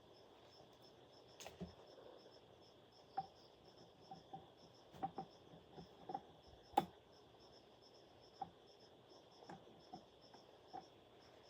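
Insects chirping: a steady high trill with a regularly pulsing chirp above it, under scattered light clicks and knocks, the loudest about seven seconds in.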